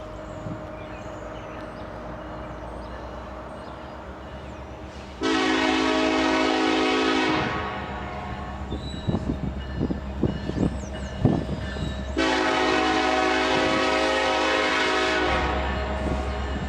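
Diesel freight locomotive's air horn sounding two long chords, the first about two seconds long and the second about three, with clicking and knocking of wheels on the rails between them. A low engine rumble rises near the end.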